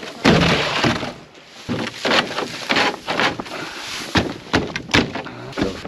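Hard items clattering and knocking together as they are rummaged through and shifted in a dumpster, with several sharp crashes at irregular intervals.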